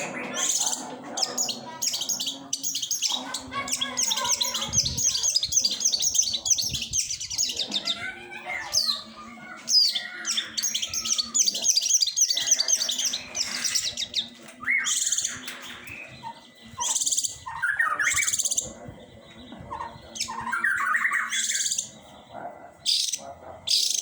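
Long-tailed shrike singing. It gives long runs of fast, high, chattering trills, then shorter separate harsh calls with pauses between them in the second half.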